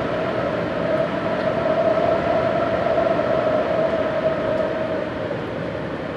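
Strong typhoon winds blowing hard, with a steady whistling note over the rushing noise. The gusts swell in the middle and ease off a little near the end.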